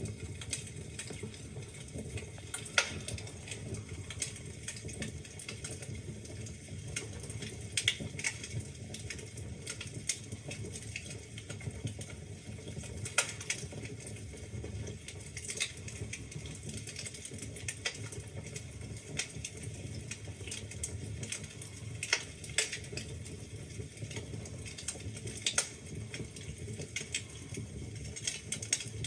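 Wood fire burning in a fireplace: a steady low rumble of the flames with irregular crackles and occasional sharper pops from the burning logs.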